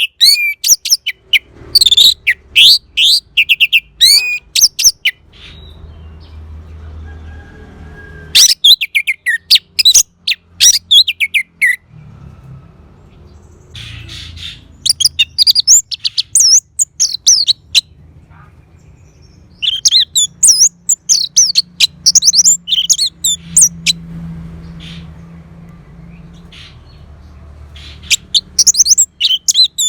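Orange-headed thrush (anis merah) singing: loud bouts of fast, varied high whistled phrases lasting a few seconds each, separated by pauses of one to several seconds.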